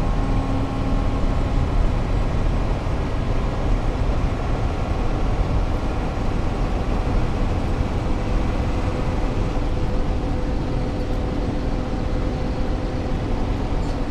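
Steady drone of a Mercedes-Benz 1113 truck's diesel engine with low road rumble, heard from inside the cab while driving at a constant pace.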